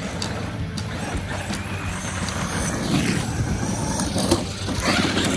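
Electric radio-controlled monster trucks driving over dirt: motor and tyre noise with scattered clicks, and louder surges about three and five seconds in.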